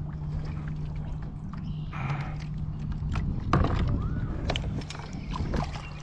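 Water sloshing and splashing around a kayak, with scattered knocks and clicks, loudest about three and a half seconds in, over a low steady hum.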